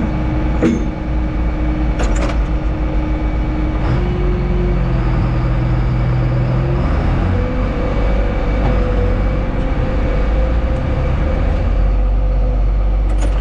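Tractor engine running steadily, its pitch shifting about four seconds in and again about seven seconds in. A few sharp clicks stand out, one near the start and one near the end.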